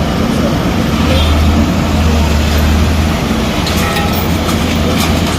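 Heavy machinery engine running steadily with a loud low drone, with a few faint knocks late on.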